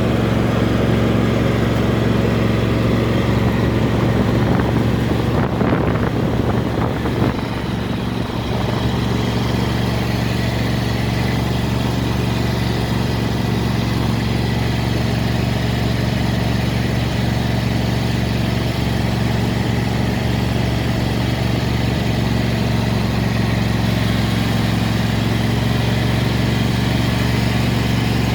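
A steady, low engine drone that holds one pitch, with a short stretch of crackly noise about six seconds in.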